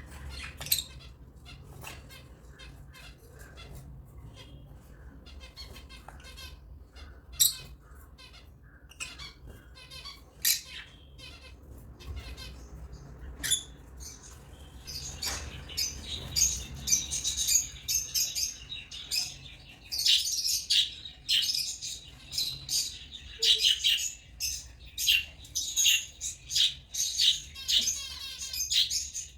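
African lovebirds chirping and squawking in short, sharp, high calls. The calls are scattered at first, then come thick and fast from about halfway through. A faint low hum runs underneath.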